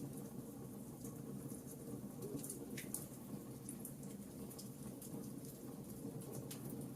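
Wood fire crackling in a fireplace: frequent small, irregular pops and snaps over a steady low rush of burning.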